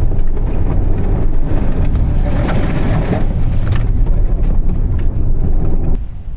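Vehicle driving on a muddy dirt back road: heavy, rumbling tire and road noise with scattered clicks and knocks. The level drops suddenly about six seconds in.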